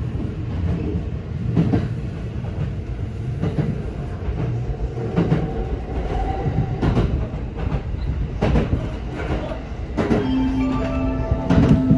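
Train rumbling along the track, heard from inside the passenger car, with a sharp clack from the rail joints every second or two. A steady whining tone comes in about ten seconds in.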